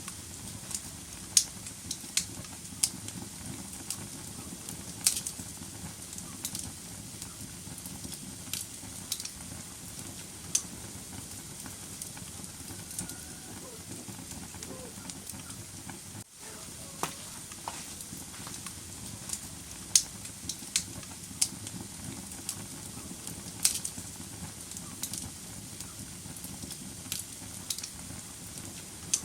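Wood fire crackling in a fireplace: irregular sharp pops and snaps, some loud, over a steady low rush of the flames.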